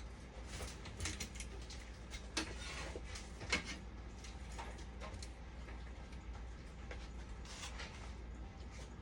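Scattered light clicks and knocks of parts being handled during repair work on a dialysis machine, the sharpest two about two and a half and three and a half seconds in, over a steady low hum.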